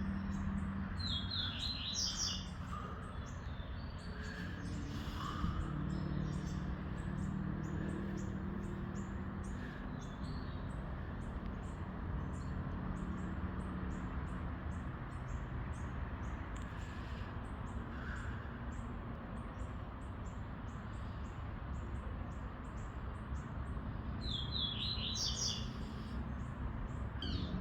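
Birds chirping in quick flurries about a second in and again near the end, with a faint regular high ticking throughout, over a steady low hum.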